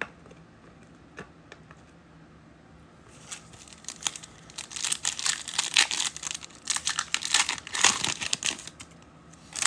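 Foil wrapper of a trading-card pack crinkling and tearing as it is ripped open. Dense crackling starts about three seconds in, after a few light clicks.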